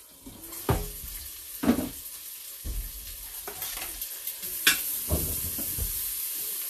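Onions and garlic sizzling in butter in an electric multi-cooker pot on its sear setting. The sizzle gets louder and steadier a few seconds in as the lid comes off, with several sharp knocks and clatters of the lid and utensils.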